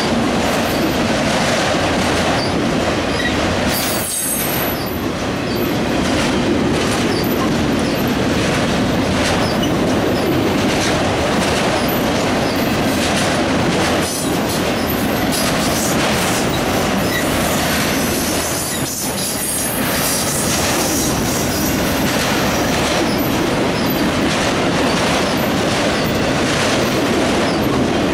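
Freight train of autorack cars rolling past close by: a steady, loud clatter of steel wheels on the rails and rattling car bodies.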